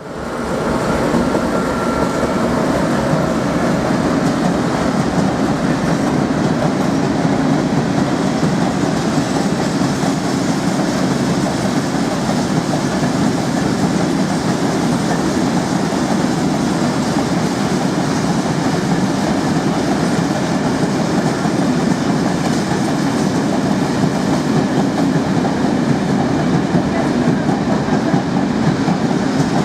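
Train moving through the station, a steady, loud rumble of wheels on the rails that fades in at the start and holds unchanged.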